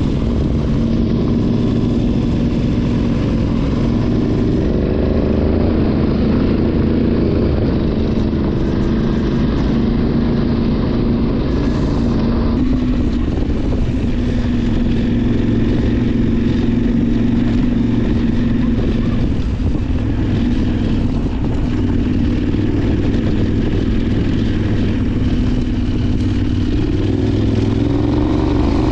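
Parallel-twin adventure motorcycle engine running continuously at a fairly steady pitch.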